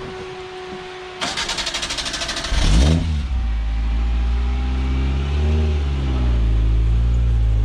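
A 4WD's engine being started: the starter motor cranks in a fast, even rhythm for about a second and a half, the engine catches, then it runs with a short rise and fall in revs.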